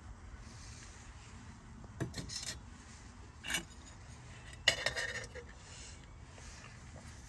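Three separate sharp clinks and clatters of hard objects being handled, about two, three and a half and nearly five seconds in; the last is the loudest and rings briefly.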